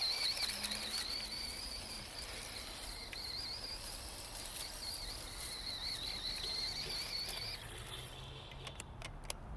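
Electric RC truck's motor giving a high, slightly wavering whine as it drives through grass; the whine cuts off about three-quarters of the way through, followed by a few sharp clicks.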